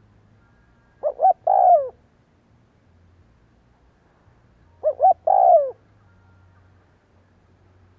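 Spotted dove cooing: two calls about four seconds apart. Each is two short coos followed by a longer coo that falls in pitch at the end.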